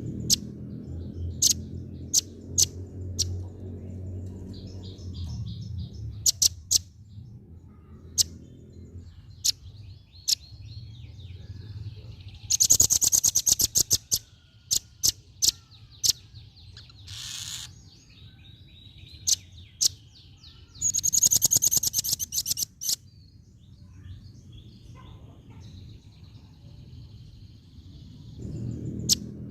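Female velvet-fronted nuthatch calling: a scatter of sharp, high single chips, with two bursts of rapid chattering trills, one a little before halfway and one about two-thirds through. A low rumble sits under the calls at the start and near the end.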